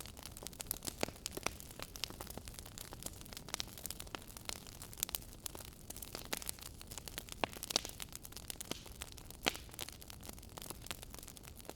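Wood fire in a fireplace crackling and popping: many sharp, irregular pops over a soft steady hiss and low rumble of burning.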